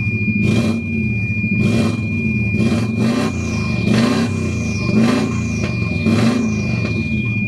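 Subaru Impreza WRX's warmed-up 2-litre turbocharged boxer engine, with a straight-pipe exhaust, blipped over idle about seven times in quick rev rises and falls. Pretty loud.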